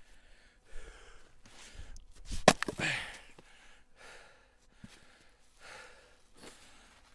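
A man breathing hard with exertion, a few heavy breaths. About two and a half seconds in comes one sharp, loud knock, the loudest sound, with a brief ring after it.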